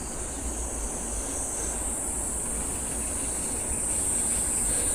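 Steady high insect buzz, like cicadas, over the low rumble of wind and tyres while cycling, growing a little louder near the end.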